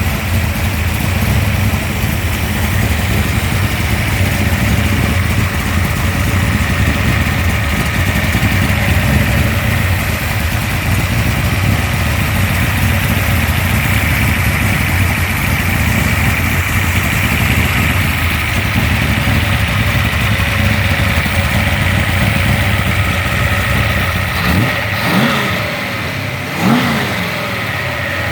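Dodge 360 stroker V8 (406 cubic inch) with Hughes dual valve springs, running steadily after its camshaft break-in. Near the end it is blipped twice, revving up sharply and falling back.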